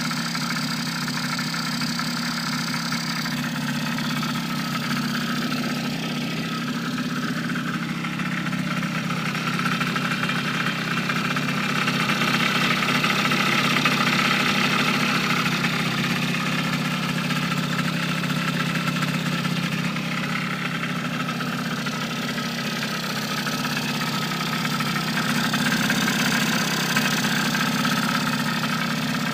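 A '314' engine running steadily at idle, growing slightly louder twice before settling back.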